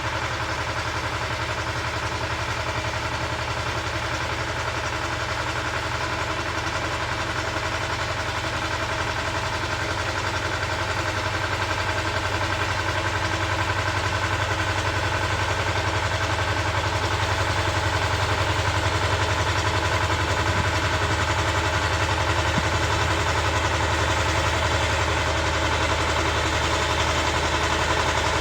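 Engine of a walk-behind motor cultivator running steadily as it tills soil, growing a little louder about halfway through.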